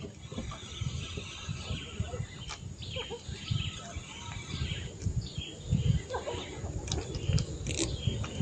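Small birds chirping repeatedly in short calls, some falling in pitch, over low knocks and bumps close by.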